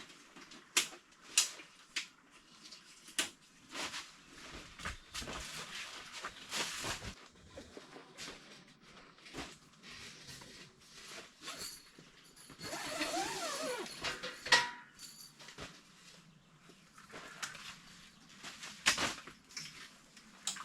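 Scattered knocks, clicks and rustling as camping gear is handled and set up, with a longer scraping rustle about twelve seconds in.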